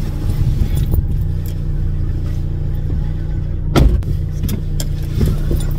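Car engine idling steadily with the driver's door open, and a single sharp knock just before four seconds in.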